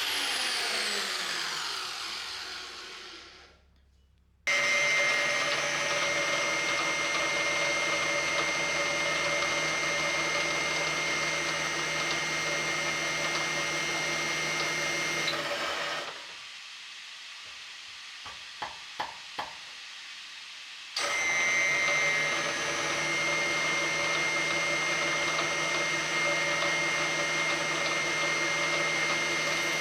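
Electric power-tool motor running at a steady speed in a metal workshop. Near the start a motor winds down in falling pitch and stops; then the steady running starts abruptly, drops away about sixteen seconds in with a few sharp clicks, and starts abruptly again about five seconds later.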